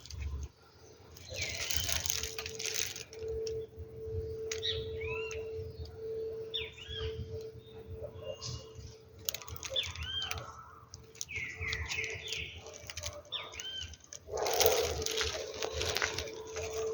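Small birds chirping, a string of short arched calls repeating every second or so. A faint steady tone hums underneath, and twice there is a louder burst of rustling noise.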